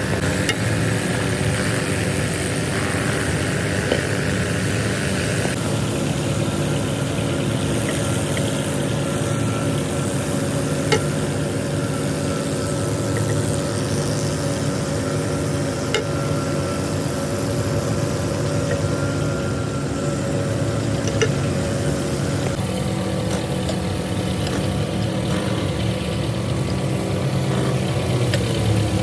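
Tractor engine running steadily at idle, with a few short sharp clicks or knocks over it.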